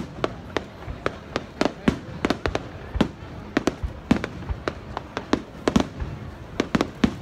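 Aerial firework shells bursting in quick, irregular succession: a volley of sharp bangs, about three a second.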